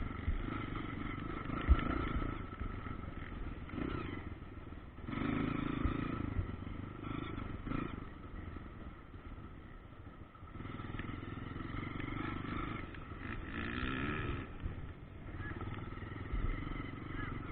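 Motocross dirt bike engines revving, the pitch rising and falling as they ride, with a quick wavering run of revs about fourteen seconds in.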